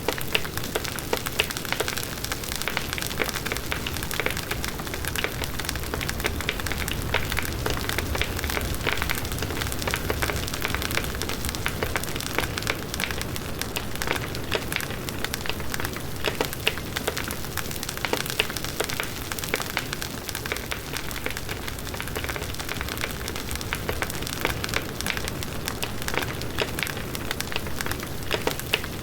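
Large wood bonfire burning steadily: dense crackling and popping of the burning wood over the low rush of the flames.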